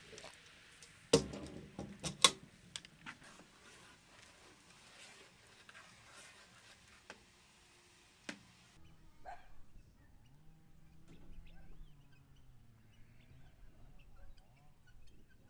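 A few sharp knocks or clatters, the loudest about a second and two seconds in, then a few lighter clicks. After the background hiss cuts off, faint animal calls that waver in pitch.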